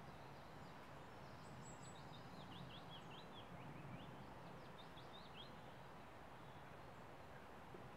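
Faint songbird song: two quick runs of short, high, down-slurred notes, the first about a second and a half in and the second around four to five seconds in, over a steady low outdoor hiss.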